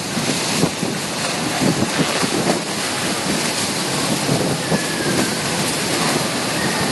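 Typhoon wind and driving rain, a steady loud rush of noise with gusts buffeting the microphone.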